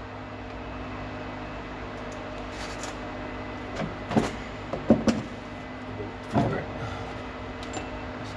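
A handful of short knocks and clanks, like tools and metal suspension parts being handled, over a steady low hum.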